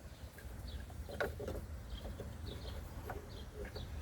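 Light clicks and taps of the wiper pulse board and its plastic housing being handled and fitted, the loudest about a second in. Small birds chirp over and over in the background.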